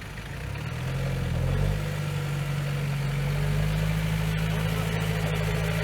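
Off-road vehicle engine picking up revs about a second in, then holding a steady, heavy drone under load.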